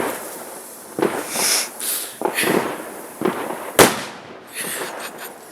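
Firework banger going off: a few softer bursts of noise, then one sharp bang a little under four seconds in.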